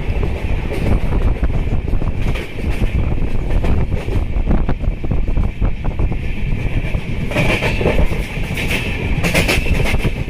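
Moving passenger train heard from inside, by an open window: a steady rumble and rush of air, wheels clattering over rail joints, and a steady high-pitched ring. The clatter grows louder and busier about seven seconds in.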